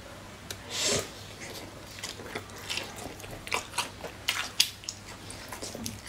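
Close-miked mouth sounds of a person biting into and chewing spicy latiao (chewy gluten strips). There is a longer bite about a second in, then wet chewing with irregular sharp clicks and smacks.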